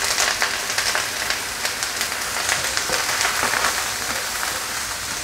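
Sliced beef sizzling and crackling in hot oil in a wok with sautéed shallots, garlic and ginger, just after being tipped in. A spatula stirs the pan.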